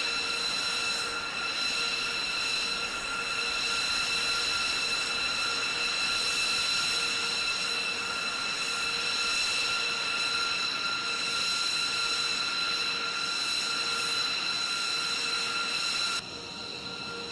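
B-2 Spirit's General Electric turbofan engines running: a steady high-pitched whine over a rushing hiss. The upper hiss drops away suddenly near the end.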